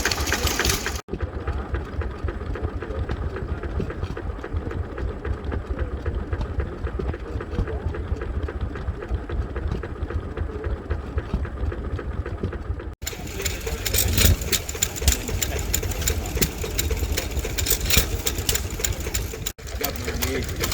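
Vintage stationary engines running at a steady, even beat, heard in several clips joined by abrupt cuts.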